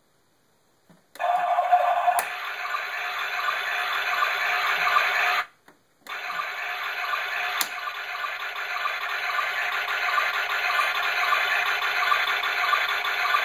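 Circuit-bent toy washing machine's sound chip playing a noisy, glitched electronic loop. It cuts out twice, for about a second at the start and briefly near the middle, with two sharp clicks, then settles into a fast, evenly repeating pulse.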